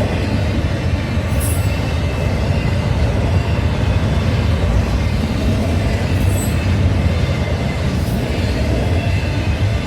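Freight train rolling past close by: a steady loud rumble of wheels and cars on the rails, with a few brief high-pitched wheel squeals.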